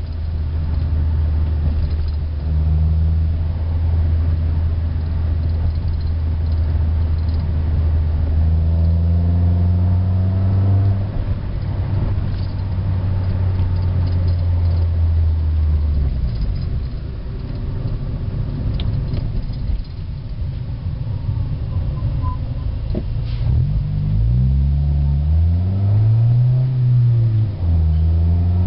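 1991 Honda Accord's 2.2-litre four-cylinder F22A1 engine and exhaust, heard from inside the cabin with the windows up: a steady low drone, with the engine speed rising and falling several times in the last few seconds. The exhaust has a deep tone.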